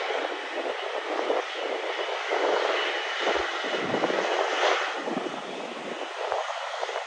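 Jet airliner's engines as it passes: a steady rushing roar with a faint high whine, easing a little near the end.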